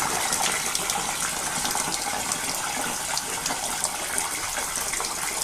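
Water running and splashing steadily while a cast-iron steam boiler is flushed out to wash out factory oil and black sediment.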